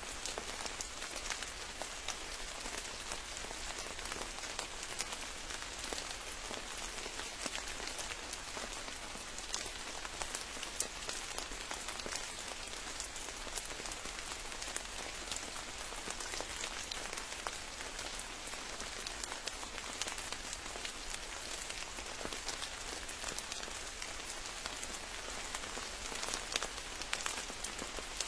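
Steady rain falling, with many single close drop hits standing out from the even hiss of the downpour.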